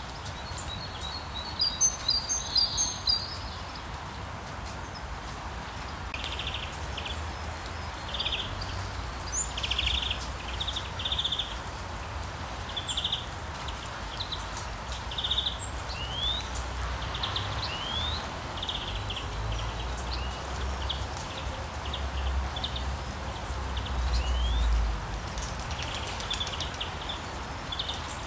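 Rainforest nature ambience: a steady hiss with many short bird chirps and rising whistled calls scattered throughout. A louder burst of bird notes comes about two seconds in, and a low rumble sits underneath.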